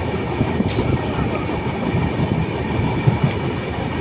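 Train running along the track: a steady low rumble with rattling from the wheels and cars, and a faint steady high tone above it.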